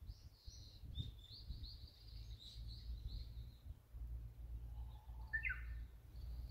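Small birds chirping in a rapid run of short high-pitched notes, followed near the end by a separate brief, lower call with quick falling notes, over a steady low rumble.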